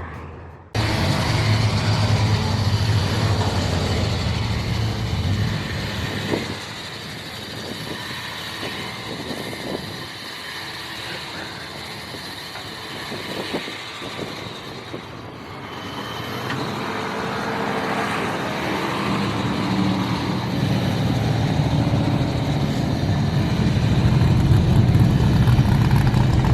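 Motor vehicle driving, a steady engine and road noise. It eases off about a quarter of the way in and grows louder toward the end.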